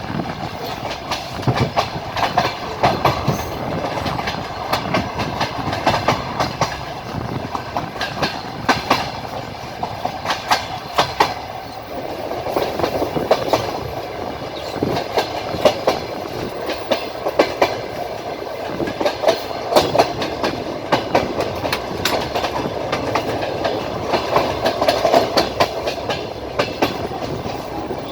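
Train wheels clattering over rail joints, heard from on board a moving train: a steady rolling rumble broken every couple of seconds by clusters of sharp clicks.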